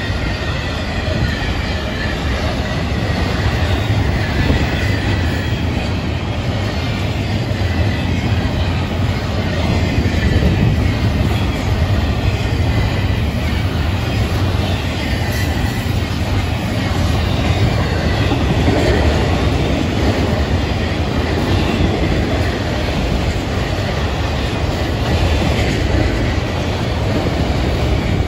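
Florida East Coast Railway freight cars rolling past, first double-stack container well cars, then autorack cars. Their steel wheels on the rails give a steady, loud rumble and clatter, with a faint high wheel squeal at times.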